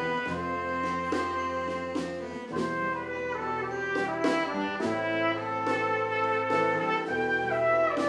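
A rock band playing an instrumental passage of a song: held melody notes over a bass line that changes note every couple of seconds, with light percussion ticks.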